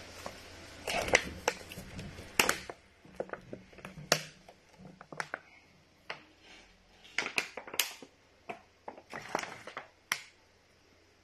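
Close-miked eating sounds: irregular wet smacks, clicks and crunches of chewing rice with pepper and onion stew eaten by hand, with short quiet gaps between them.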